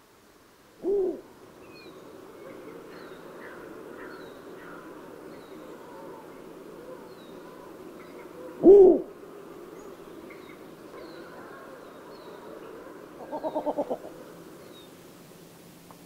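Owl hooting: a short hoot about a second in, a louder one near nine seconds, and a quavering run of quick hoots around thirteen and a half seconds. Behind it are a steady hiss and faint high chirps.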